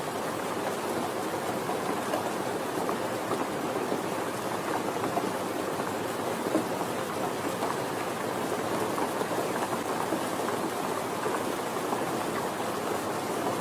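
Steady rain falling, a dense patter of drops with no thunder.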